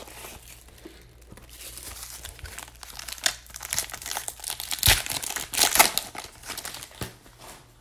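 Plastic shrink wrap crinkling and tearing as a sealed trading card box is unwrapped and opened, in irregular crackles that get louder past the middle.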